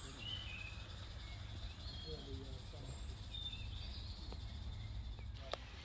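Wild birds chirping in short calls over a steady low rumble, with faint distant voices and a single sharp click near the end.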